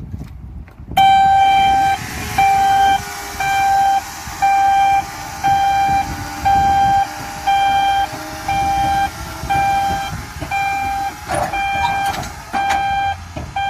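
A 2006 fire truck's warning beeper sounds a steady, single-pitched beep about once a second, over the low rumble of the running truck. The first beep, about a second in, is longer than the rest.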